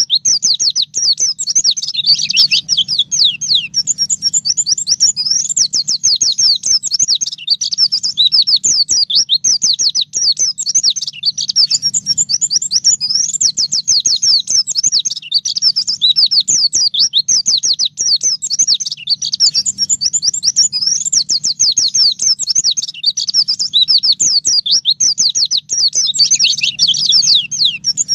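White-eye (pleci) song: a long, unbroken stream of rapid, high chirping notes, each a quick downward slide, delivered with hardly a pause.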